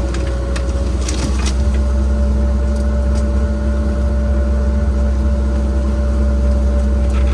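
Cat 306 mini excavator's diesel engine running under work, a heavy steady drone with a steady whine over it, and a few sharp knocks, mostly in the first second and a half and again near the end.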